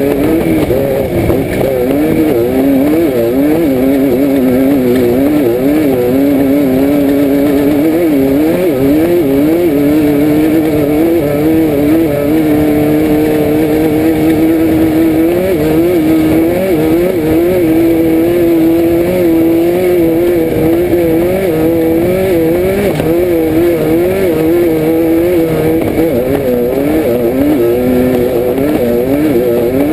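Air-cooled Volkswagen flat-four engine of a Class 5/1600 Baja Bug running hard, heard from inside the car, its pitch rising and dipping constantly as the throttle is worked, with stretches of a second or two held at steady revs.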